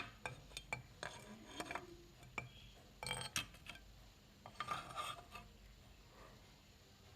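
Hard ceramic tile pieces clinking and knocking as they are handled, with a few short scraping rubs; irregular, with clusters about three seconds in and again around five seconds.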